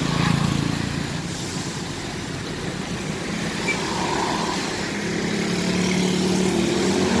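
Intercity bus's diesel engine running as it pulls away, with another engine growing louder near the end, over the steady hiss of heavy rain.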